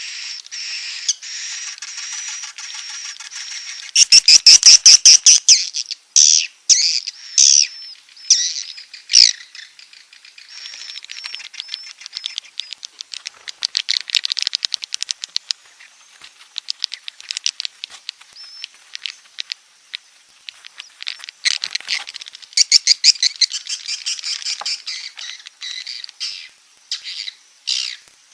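Swiftlets calling in rapid trains of clicking chirps and buzzy twitters, a recorded 'inap' roosting call played to lure swiftlets into a swiftlet house. The calls come in runs, loudest about four to six seconds in and again near the end.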